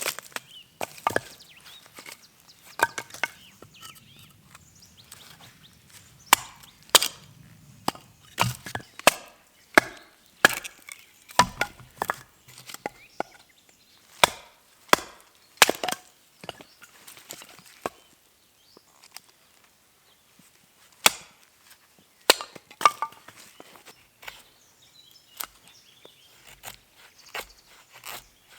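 Wood being split with repeated sharp blows, irregularly spaced about a second apart, thinning out about three-quarters of the way through.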